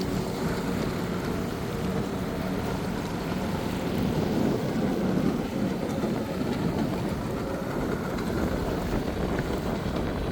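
Jet ski engine running steadily under way, a constant hum, with wind buffeting the microphone.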